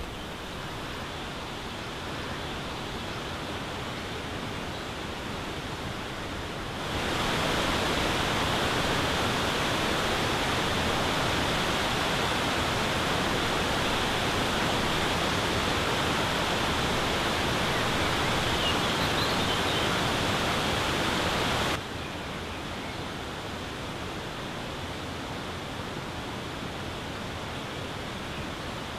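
Steady rush of falling water from a waterfall. It turns abruptly louder and brighter about a quarter of the way in and drops back just as suddenly about three quarters through.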